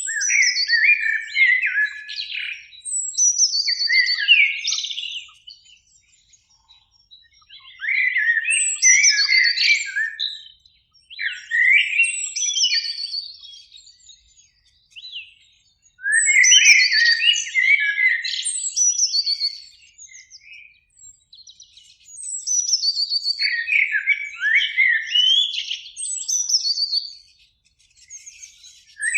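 Eurasian blackbird singing: a run of separate fluting phrases, each a few seconds long, with short pauses between them.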